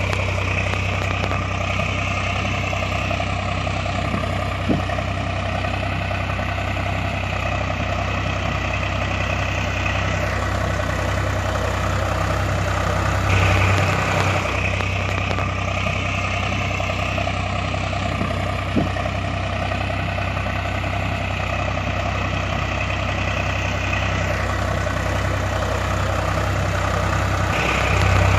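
Tractor engine idling steadily. It is a recording that loops about every 14 seconds, with a small click about 5 seconds into each loop.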